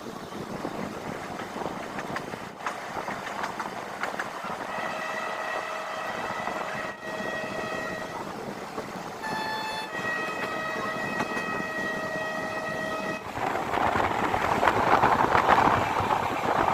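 Passenger train running with a steady rushing rumble, its horn sounding two long blasts of about three seconds each, one about five seconds in and one about ten seconds in. The rushing noise grows louder for the last few seconds.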